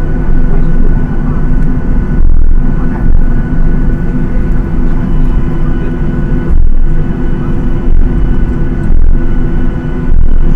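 Boeing 737-800's CFM56-7B jet engines heard from inside the cabin: a loud, steady rumble with a steady engine whine over it, dipping briefly a few times.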